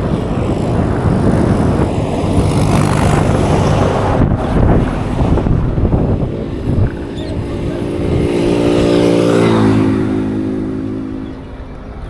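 Traffic heard from a moving bicycle: a steady, loud rumble of wind and road noise. Starting a little past halfway, a passing motor vehicle's engine note rises out of it, then drops slightly in pitch and fades as it goes by.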